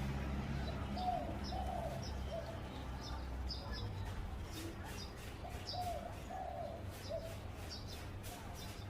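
Zebra dove cooing: two phrases of quick, rolling coos a few seconds apart, with other small birds chirping high above. A low vehicle rumble fades out over the first couple of seconds.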